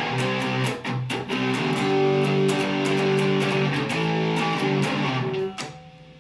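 Mexican Fender Stratocaster electric guitar with Lace Sensor pickups, played through an amp on the neck pickup with the tone rolled all the way down: picked chords and notes ringing, then damped about five and a half seconds in.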